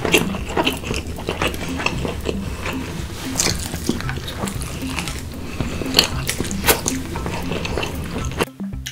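Close-miked eating of black bean noodle wraps: continuous biting and chewing, a dense run of quick wet clicks, cutting off suddenly near the end.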